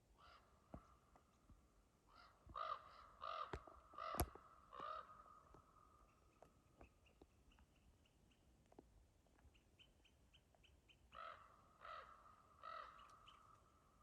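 A corvid cawing: a single caw at the start, a run of about six harsh caws between two and five seconds in, and three more near the end. A few sharp clicks and faint, quick high chirps fall between the calls.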